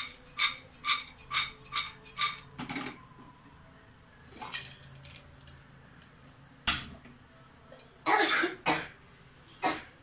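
Metal utensil clinking against a metal cooking pot, six ringing clinks about two a second, followed by a dull knock and a few scattered clicks and scrapes.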